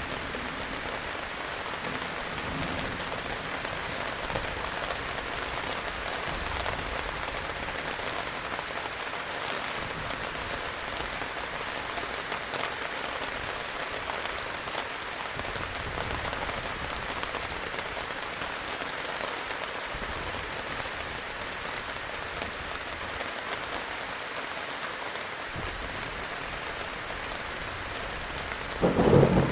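Heavy rain falling steadily in a dense, even hiss. Right at the end, a sudden loud rumble of thunder breaks in.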